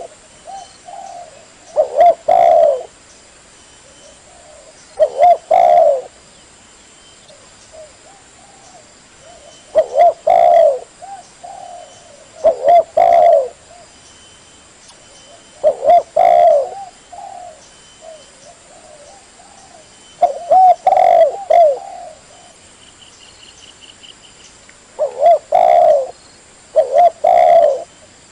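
Spotted dove cooing: loud, repeated coo phrases every few seconds, with softer single coos between them.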